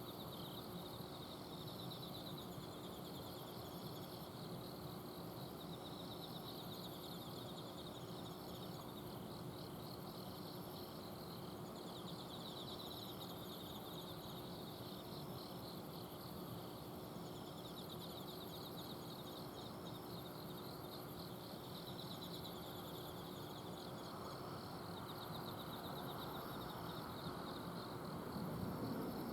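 Autumn insects calling at night, several kinds together: trilled phrases that repeat about every five seconds over thinner, higher chirping. Under them runs the steady low hum of an air-conditioner's outdoor unit, and a soft hiss swells near the end.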